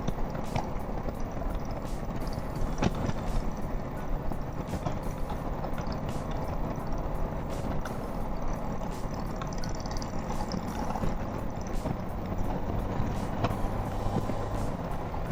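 2018 Honda Gold Wing's flat-six engine running steadily under way, its low hum mixed with constant wind and road noise.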